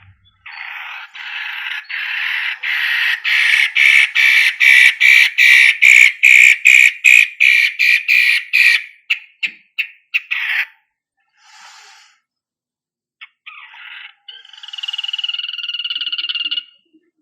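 Long-tailed shrike (cendet) calling: a harsh note repeated about two to three times a second that grows louder, then slows and breaks off about ten seconds in. After a short burst, a buzzy, sustained call follows near the end.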